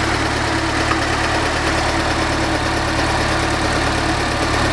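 Saab 90's Stromberg-carburetted four-cylinder engine idling steadily while its idle speed and mixture are being set.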